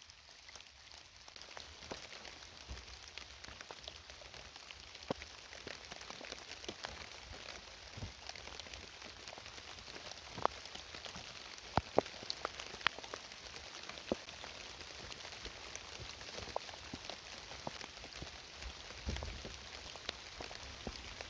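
Heavy rain falling steadily as an even hiss, with scattered sharp ticks and pops throughout, a few louder ones near the middle.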